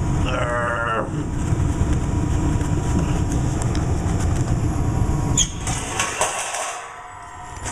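Gas furnace running with its blower rumbling steadily. About five and a half seconds in there is a sharp knock, then the running sound dies away.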